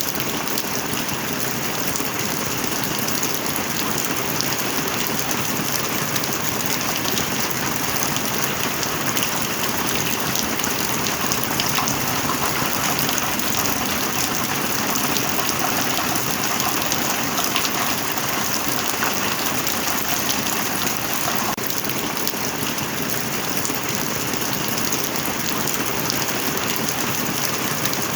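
Steady heavy rain, a dense even patter of drops that neither builds nor fades.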